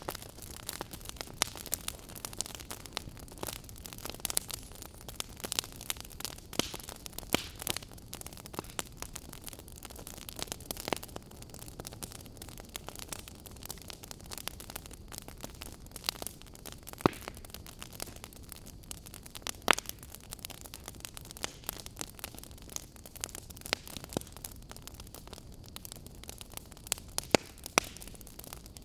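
Wood fire burning: firewood crackling and popping at irregular intervals over a steady low hiss, with a few louder snaps here and there.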